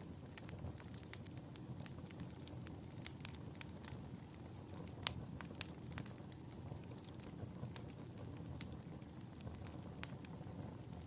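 Wood fire crackling in a fireplace: irregular sharp pops and snaps over a low steady rumble of flames, with the loudest pop about five seconds in.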